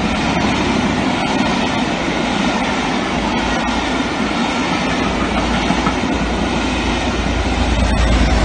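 Railway coaches of a steam-hauled charter train passing close by: a steady rush of wheels on the rails with clickety-clack over the joints. Over the last few seconds a deeper rumble builds as the diesel locomotive on the rear draws level.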